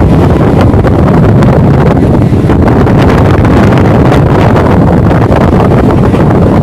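Wind blowing hard on the microphone at the open door of a moving suburban electric train, over the steady rumble of the train running on the track. Loud and steady.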